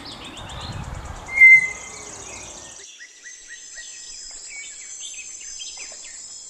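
Tapir giving one short, loud, high-pitched whistle about a second and a half in. Behind it, insects trill steadily and birds chirp; a low rustling background cuts off abruptly about three seconds in.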